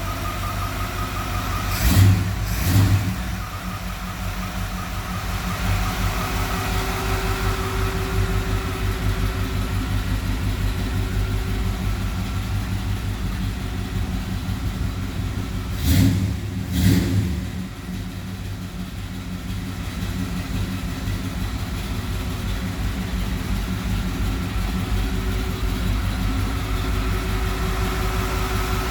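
1972 Chevrolet Blazer engine idling steadily, blipped twice in quick succession about two seconds in and again about sixteen seconds in.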